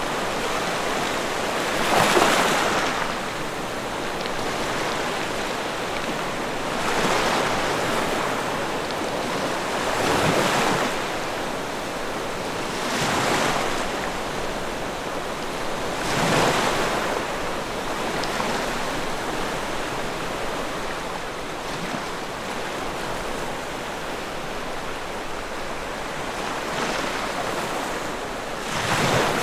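Log fire burning in a fireplace: a steady rushing roar that swells and falls back every few seconds, with little sharp crackle.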